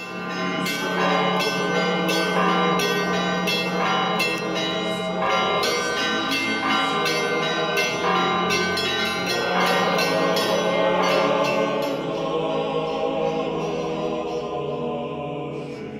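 Church bells ringing a rapid, dense peal over a low steady tone, fading down over the last few seconds.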